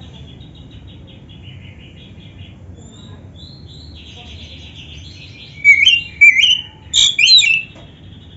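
Oriental magpie-robin (kacer) singing: a quiet, fast chatter of repeated high notes, then about four loud whistled phrases that sweep up and down near the end.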